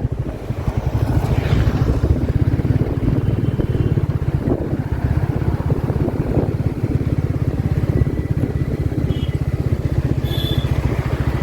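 Royal Enfield Classic 350's single-cylinder engine running while the motorcycle is ridden, a steady rapid beat of firing pulses.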